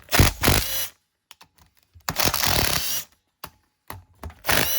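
Cordless power driver loosening the stator plate screws on a small two-stroke dirt bike engine, run in three short bursts of under a second each, its whine rising at the end of each burst.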